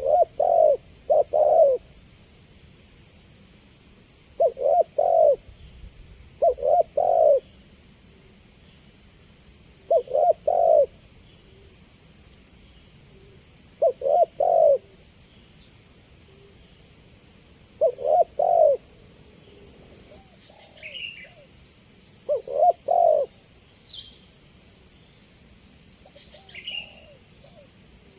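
Spotted dove (tekukur) cooing: short phrases of two or three low coos, repeated every few seconds. Underneath is a steady high drone of insects, and a few faint high chirps come in near the end.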